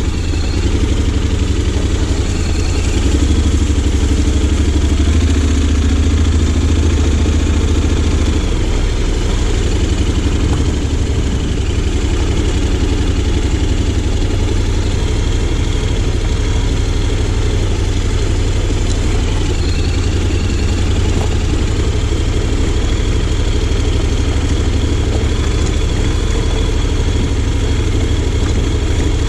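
Honda X-ADV 750's parallel-twin engine running steadily while the bike is ridden, with a loud low rumble and no marked revving.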